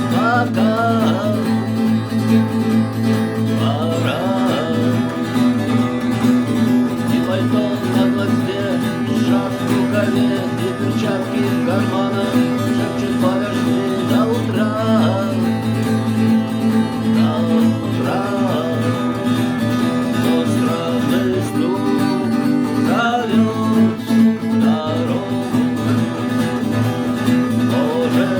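Rock band playing an instrumental passage led by guitar: a melody line bending up and down in pitch over steady, sustained low accompaniment.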